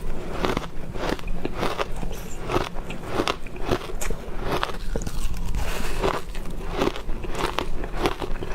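Ice being bitten and crunched between teeth: an irregular run of crisp crunches and cracks, a few every second.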